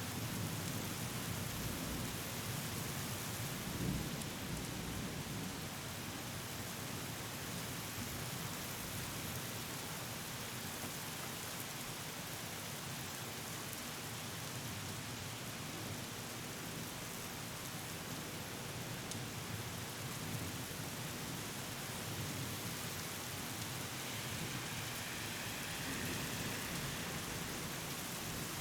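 Steady rain falling during a thunderstorm, with a low rumble of thunder in the first few seconds that swells about four seconds in.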